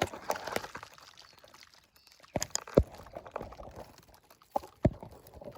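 Rustling and crackling of bush foliage and twigs handled close to the microphone, with a few sharp snaps.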